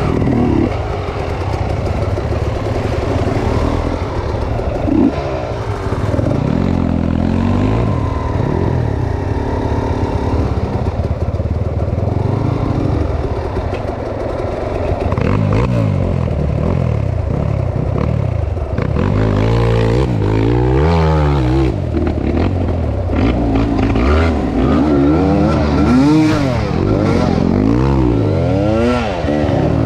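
Chinese-made enduro motorcycle engines ridden off-road, revving up and down again and again, with the rises and falls coming faster and stronger in the second half.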